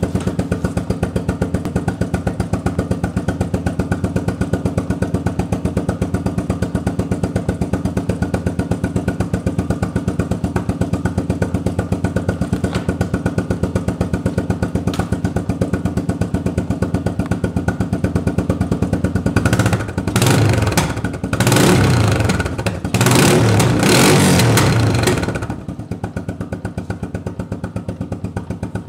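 1985 Suzuki QuadRunner 230's single-cylinder four-stroke engine idling steadily through its exhaust. About two-thirds of the way in, the throttle is blipped three times before it settles back to idle.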